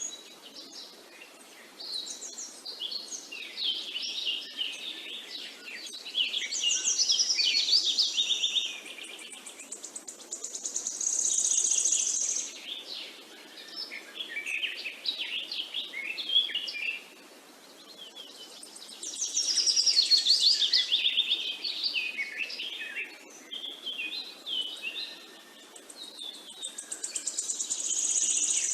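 Birdsong: long, varied phrases of high chirps and trills, coming in bouts with short pauses between.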